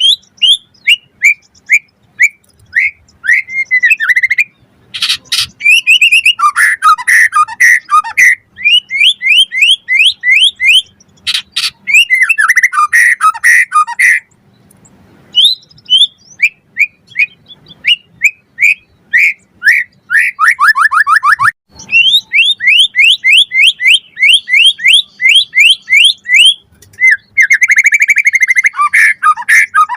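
White-rumped shama (murai batu) singing a loud, varied song. Runs of quickly repeated whistled notes, many sliding downward, alternate with fast chattering phrases, with a brief pause about halfway through.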